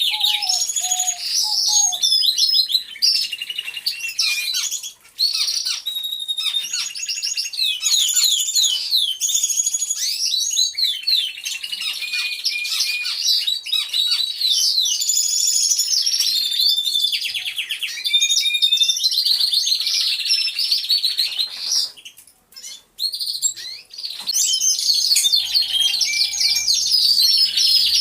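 Many domestic canaries singing at once: dense, overlapping trills and rapid rolling notes, with a brief lull late on before the chorus picks up again.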